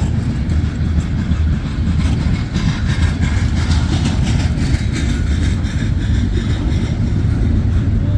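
Intermodal freight train's cars rolling past: a steady low rumble of wheels on rail with a rough, rattling hiss above it.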